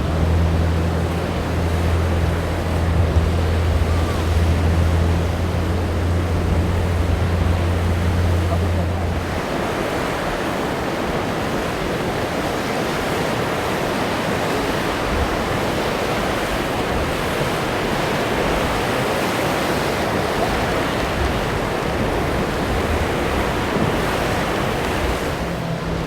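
Surf and wind rushing, with wind buffeting the microphone. A boat engine's steady low drone runs under it and cuts out about nine seconds in, then comes back near the end.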